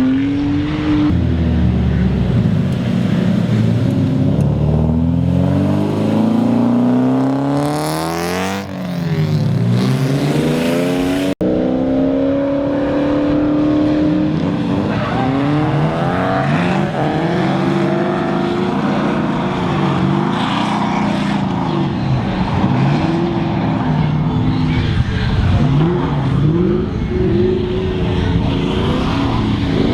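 Drift cars' engines revving up and down as they slide on a wet track. One car passes close about eight or nine seconds in, its engine pitch swinging up then down, with a hiss of tyres and spray. An abrupt cut comes about eleven seconds in, and after it several cars rev at once.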